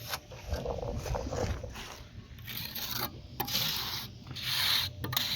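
A few rough scraping strokes of hand work, the longest and loudest about three and a half to five seconds in.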